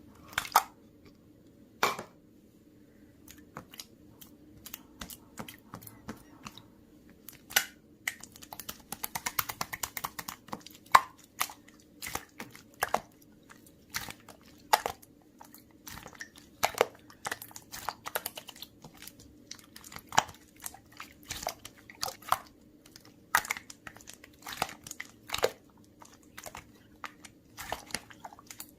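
Blue slime being squeezed and pressed by hand, giving sharp crackling clicks and pops. There is a dense run of crackling about ten seconds in, then roughly one loud pop a second.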